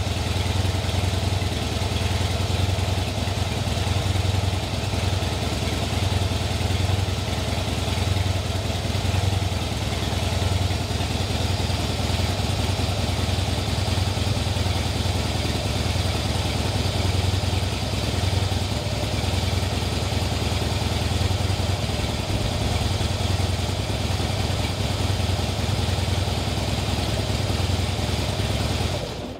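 Harley-Davidson Heritage Softail Classic's air-cooled V-twin engine idling steadily.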